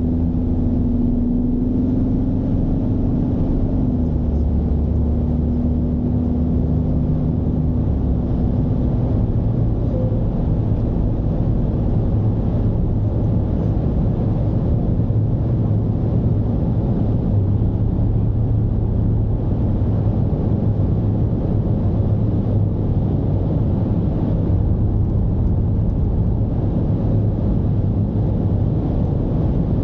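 Mercedes-Benz V220's diesel engine running under way, a steady low drone with road rumble. A higher engine tone in the first few seconds falls away about four seconds in, then a lower steady note holds.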